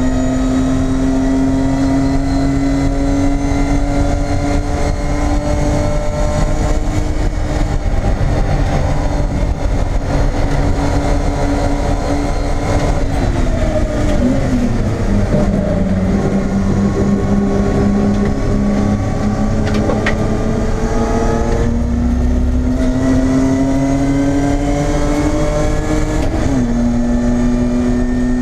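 BMW E30 race car's engine heard from inside the stripped cabin, pulling hard with its pitch slowly climbing. About halfway through the revs fall as the car brakes and changes down, then climb again, with a sudden drop near the end at an upshift.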